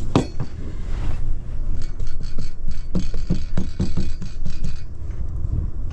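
Seasoning being shaken and worked onto fish fillets: a quick run of short taps and rattles, over a steady low rumble.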